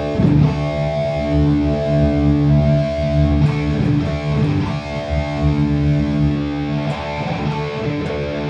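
Electric guitar played through a Boss Katana Gen 3 212 combo amp, with chords strummed and left to ring.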